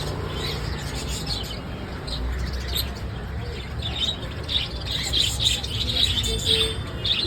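Small birds chirping, many short high chirps overlapping in quick succession, over a low rumble.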